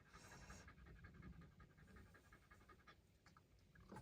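Shiba Inu dog panting, faint and quick, the rhythm fading out about three seconds in.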